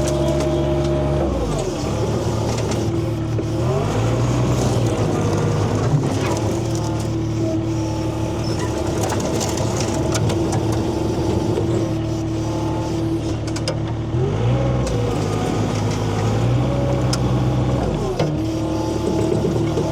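Skid steer engine running steadily, its pitch dropping and climbing back several times as the machine works.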